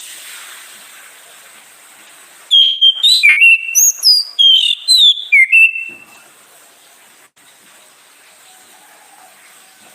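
Orange-headed thrush singing one quick run of loud whistled notes that slide up and down, starting about two and a half seconds in and ending about six seconds in, over a faint hiss.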